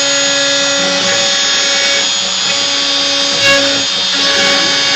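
X-Carve hobby CNC router carving acrylic: the spindle runs steadily while the stepper motors hum in steady tones that stop and change pitch every second or two as the axes move.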